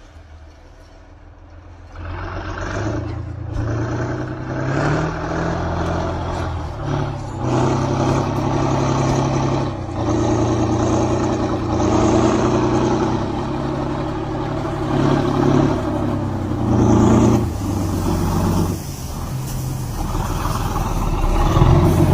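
K-700 Kirovets tractor's 22.3-litre V12 diesel running hard. It gets much louder about two seconds in, then its pitch rises and falls in steps as the revs change.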